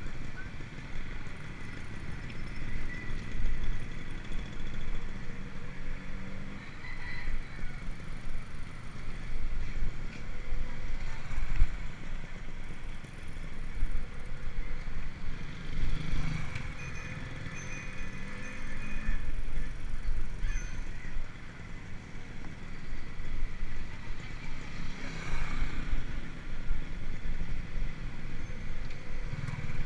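Rumbling wind and road noise during a bicycle ride, a heavy low rumble that rises and falls as the bike moves.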